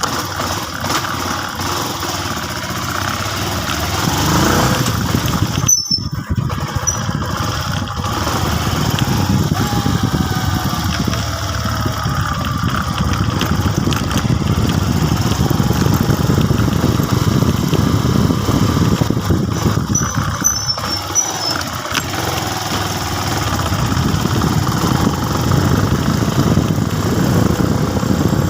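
Motorcycle engine running on the move, its pitch rising and falling several times as it speeds up and eases off.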